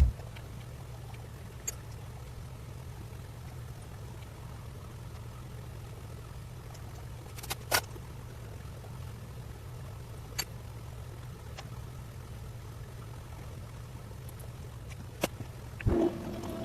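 Cat 304 mini excavator's diesel engine idling steadily, with a few sharp metallic clicks and knocks: a cluster about halfway through, and single ones a little later and near the end.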